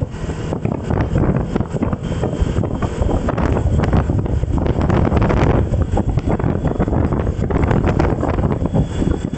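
Wind buffeting the microphone while on the move: a loud, steady, fluttering rumble of wind noise.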